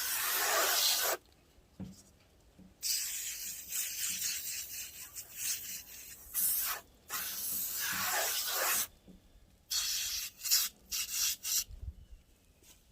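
Hand wet-sanding a foggy car headlight lens with 1000-grit wet/dry sandpaper: a second of scraping, then several seconds of continuous rubbing strokes, then a few short separate strokes near the end.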